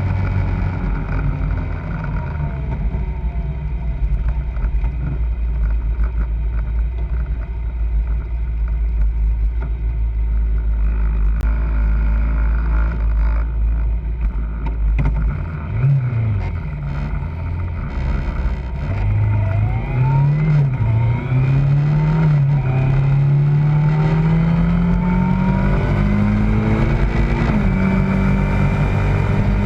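Kawasaki ZZR600 four-cylinder motorcycle engine, running steadily at first, then from about halfway revving up and down and pulling away, its note climbing through the gears with a drop at a gear change near the end.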